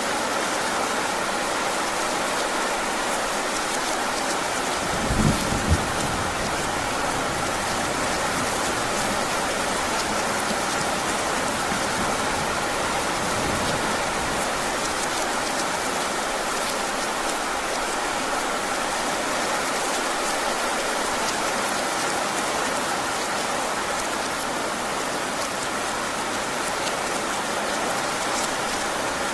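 Heavy rain falling steadily, with a short low rumble of thunder about five seconds in.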